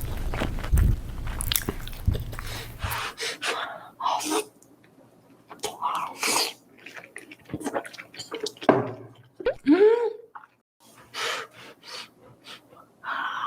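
Close-miked eating sounds: chewing, lip smacks and mouth clicks. The steady low rumble under them stops about three seconds in, and a short pitched mouth sound rises and falls about ten seconds in.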